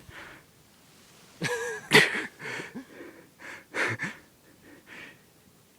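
A man's breathy, wheezing laughter in a few irregular bursts, the strongest about two seconds in.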